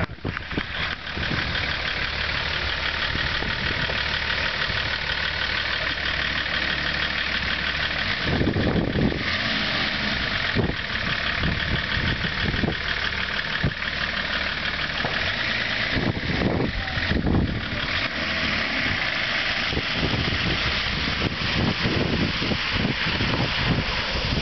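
Range Rover's engine running steadily as the 4x4 drives along a muddy, waterlogged track, with a couple of heavier low surges partway through.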